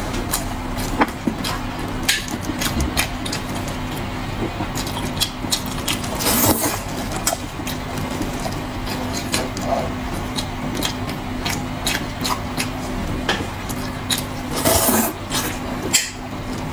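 Close-up eating sounds from someone chewing pork knuckle: scattered mouth clicks and smacks over a steady low hum, with louder noisy bursts about six seconds in and again near the end.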